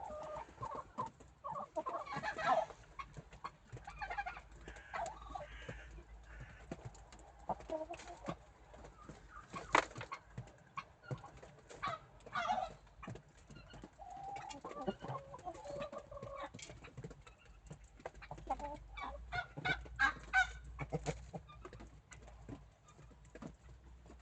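Domestic chickens clucking and calling on and off, with one longer drawn-out call partway through. Many sharp clicks and taps come between the calls and crowd together near the end.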